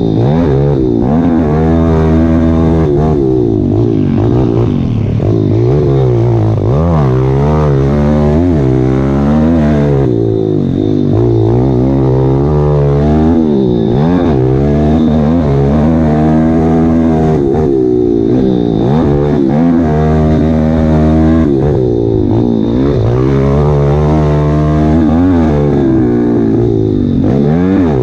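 Dirt bike engine revving hard and rising and falling in pitch every second or two as the rider accelerates, shifts and backs off, with no break in the sound.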